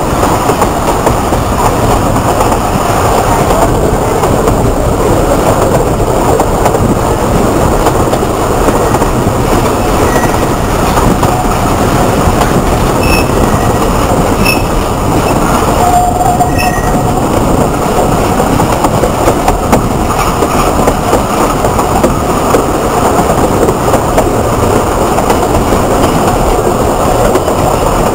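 Alishan Forest Railway train running along the track: a steady rumble of wheels and carriages, with a short faint high tone about halfway through.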